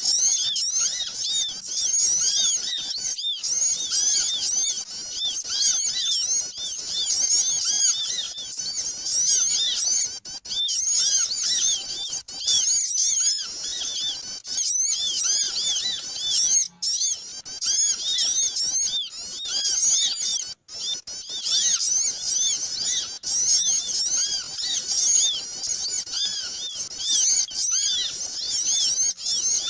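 A noisy flock of small birds chirping and twittering nonstop, with many quick high calls overlapping: a lure call for drawing small birds in. There are a few brief drop-outs partway through.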